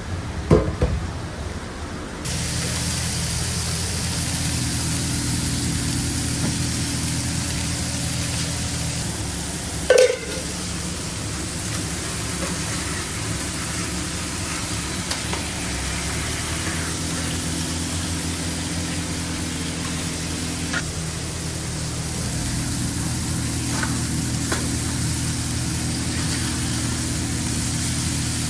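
Burger patties sizzling on a flat-top griddle: a steady hiss that sets in suddenly about two seconds in, over the steady hum of a machine. A sharp knock comes near the start and another about ten seconds in.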